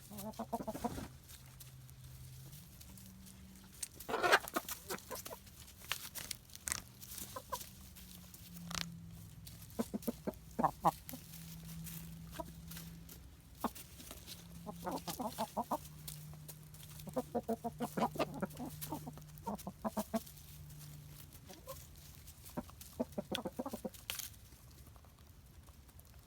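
Hens clucking in several short runs of quick clucks while foraging for crickets.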